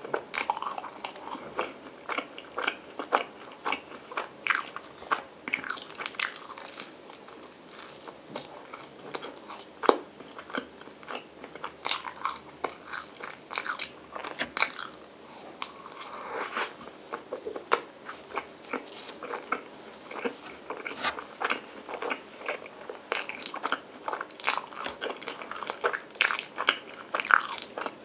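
Close-miked biting and chewing of sandwich bread spread with Nutella and ice cream: irregular crunches and crackles from the browned crust as it is bitten and chewed.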